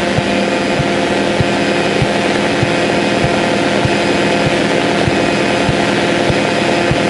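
Cessna 152's Lycoming O-235 four-cylinder engine running steadily at low power, heard from inside the cockpit, with a soft low thump repeating about every half second.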